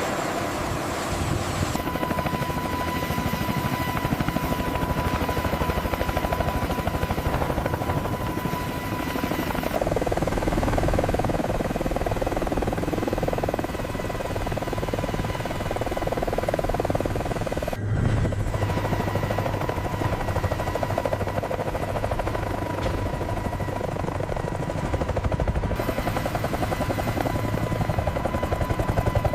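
AH-64 Apache attack helicopter running, its rotor beating rapidly under a steady high turbine whine. The sound changes abruptly several times.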